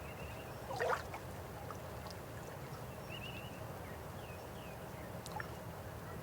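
River water flowing steadily, with a brief louder splash about a second in and a few faint, short, high chirps now and then.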